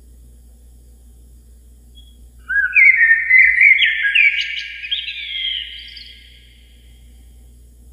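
A songbird singing one phrase of clear whistled notes that slide up and down, starting a couple of seconds in and fading out about four seconds later.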